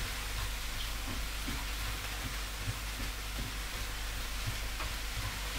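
Vegetables and bean sprouts sizzling steadily in a hot frying pan as they are stir-fried, with a few soft knocks of the utensil against the pan.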